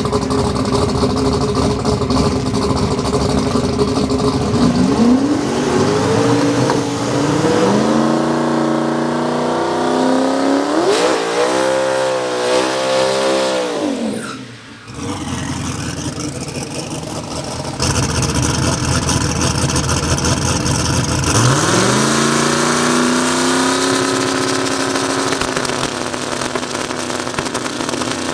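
Race car engines at a drag strip revving hard under acceleration. The pitch climbs in several sweeps as the gears change, dips briefly about halfway through, then climbs again in a further run later on.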